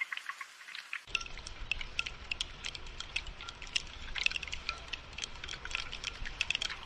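Rain falling in close, separate drops, a dense irregular patter of sharp ticks. From about a second in, a low rumble joins underneath.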